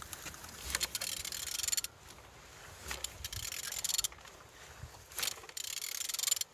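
Used engine's crankshaft being turned over by hand with a ratchet wrench: four spells of rapid ratchet clicking, each about a second or less. The engine turns freely.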